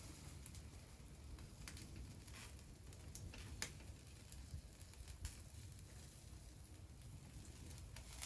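Faint, sparse clicks and crackles, about half a dozen over several seconds with the sharpest near the middle, over a low steady rumble.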